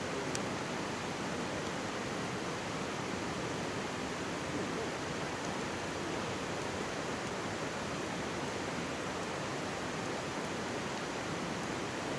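Mountain stream rushing steadily, with one sharp crackle from a wood campfire about half a second in and a few fainter pops.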